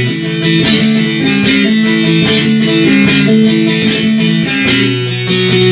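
Bağlama (long-necked Turkish saz) played with a plectrum: a quick melody of plucked notes over ringing drone strings.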